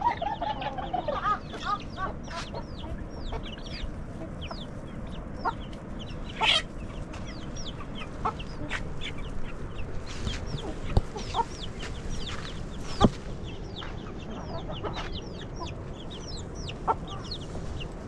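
Chickens clucking and chirping: many short, high, falling chirps scattered throughout, with a few sharp knocks in the middle.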